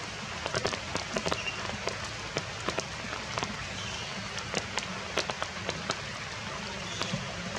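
Heavy rain falling steadily, with large drops striking close by as irregular sharp taps.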